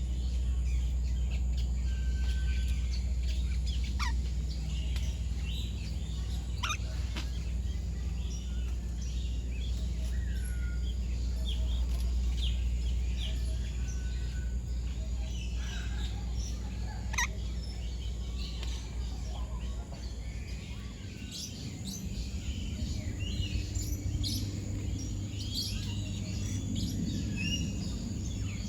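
Many birds chirping and whistling, short overlapping calls that grow busier in the second half, over a steady low hum that drops away about twenty seconds in.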